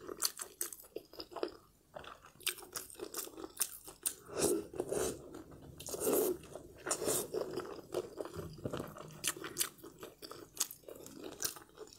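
Close-up eating sounds of a person chewing and biting glazed pork belly: many short mouth clicks and smacks, with a few louder chewing bursts about four and six seconds in.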